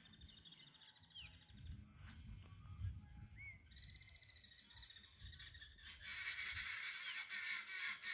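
Birds calling: long, high, steady whistled notes and a few short rising chirps, then about six seconds in a louder, dense chorus of shrill calls. A low rumble runs underneath.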